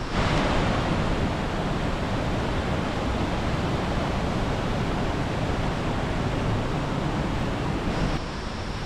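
Steady rushing of white water in a rocky mountain gorge. It comes in suddenly at the start and drops away suddenly about eight seconds in.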